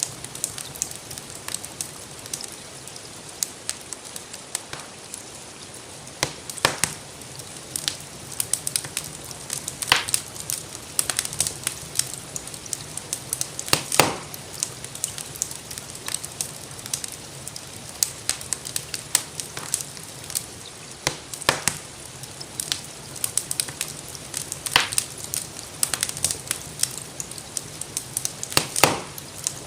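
Wood fire crackling in a fireplace, with scattered small snaps and a few louder pops, over the steady hiss of gentle rain.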